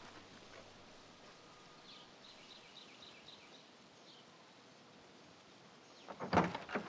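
Quiet ambience with a small bird chirping a quick run of about ten short, high notes. Near the end there is a louder, sudden noise.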